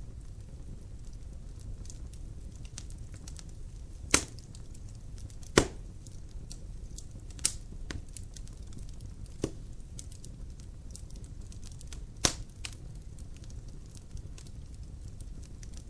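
Wood fire burning in a fireplace: a low steady rumble with faint crackling throughout and five sharp pops of snapping wood.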